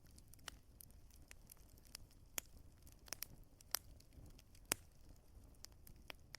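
Wood fire crackling in a fireplace: irregular sharp pops and snaps over a low, steady rumble of flames, with a few louder pops in the middle.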